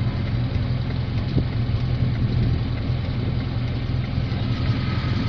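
Car engine idling steadily, a low even hum heard from inside the car's cabin.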